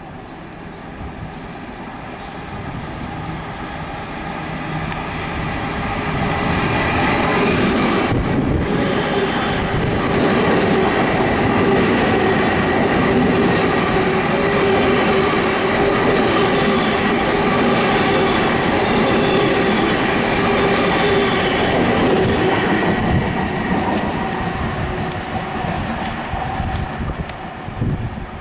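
A Long Island Rail Road train passing: its sound builds over several seconds, stays loud for about fifteen seconds, then fades away near the end.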